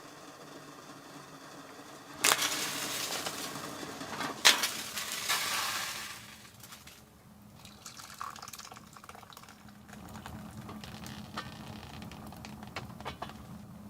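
Water hissing and rushing, starting suddenly about two seconds in and dying away a few seconds later, with one sharp snap in the middle; faint scattered crackles follow.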